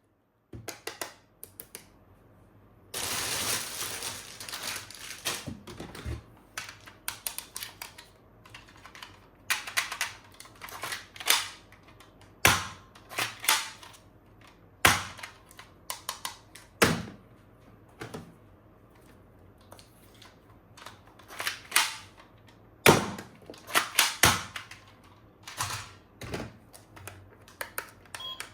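Irregular clicks and knocks of hard plastic toy weapon parts being handled, some in quick runs of clicks, with a longer spell of rustling noise about three seconds in.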